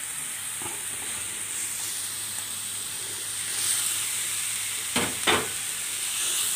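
Pangasius catfish pieces sizzling in hot oil in a flat wok with fried lemongrass and chili. The sizzle grows louder about halfway through as more pieces go into the pan, and two short clicks come about five seconds in.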